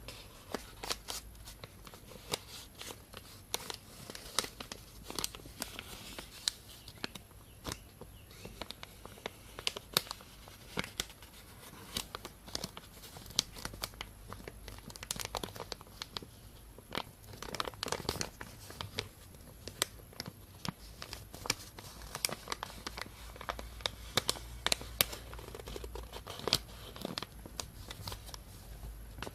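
Thin plastic bag being crinkled and crumpled, with a dense, irregular run of sharp crackles.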